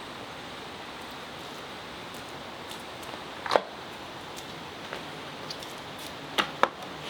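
Steady hiss with a few sharp clicks and knocks: one about halfway through and two in quick succession near the end, with lighter ticks between.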